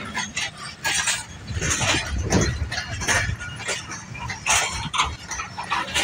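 Passenger coaches of an arriving train rolling past: irregular clanks and clicks of steel wheels over rail joints and points, over a low rumble.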